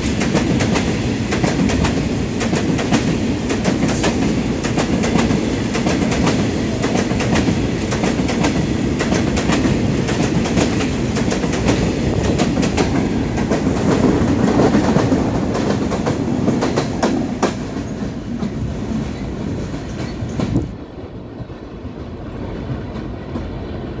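A long rake of BCNAHSM1 covered freight wagons rolling past at speed, its wheels clattering rapidly over the rail joints in a dense, loud run of clicks. About 20 seconds in, the sound drops abruptly to a quieter rumble.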